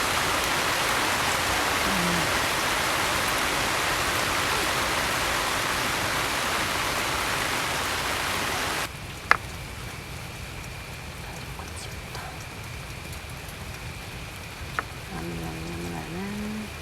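Steady rain falling, a dense even patter that cuts abruptly to a quieter rain about nine seconds in. After the drop, two sharp clicks come some seconds apart, and a short pitched sound comes near the end.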